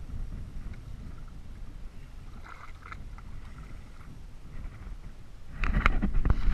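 Low rumble of wind and water out on the sea by a kayak. About five and a half seconds in, a run of loud knocks and clatter starts.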